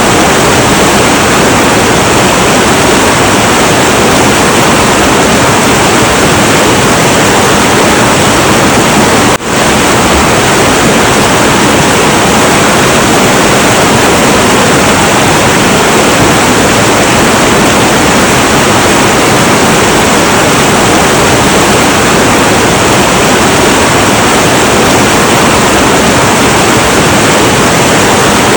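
Heavy, turbulent river flowing: a loud, steady rush of water, with a momentary drop in level about nine seconds in.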